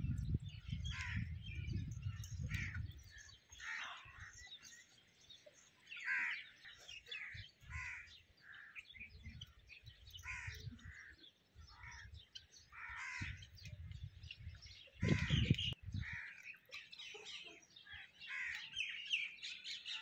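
Birds chirping and calling in many short, scattered notes. Low rumbles come near the start and again around fifteen seconds in, the second the loudest moment.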